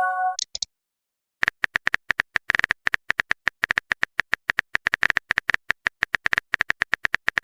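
Rapid phone-keyboard typing clicks, several short taps a second, starting about a second and a half in after the last ring of a message chime.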